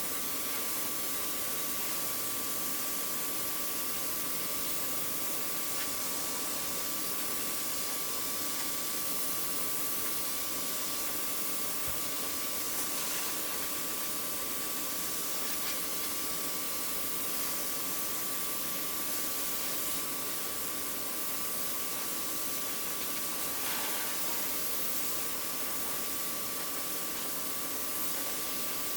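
Steady hiss of compressed air from an air blow gun, blowing sanding dust off a car body panel before painting, with a thin steady whistle through it.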